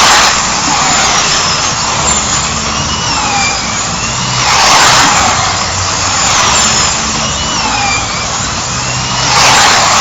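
Slot cars' small electric motors whining as they lap the track, the pitch rising and falling as they speed up and brake, over a steady rushing noise. A louder surge comes about every five seconds, near the start, about halfway and near the end.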